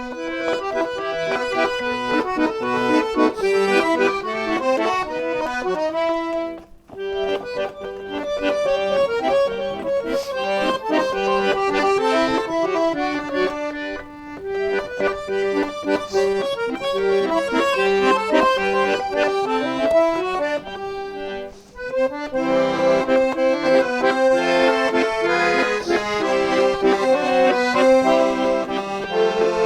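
Accordion music with many notes sounding together, broken by two short pauses, about seven and twenty-two seconds in.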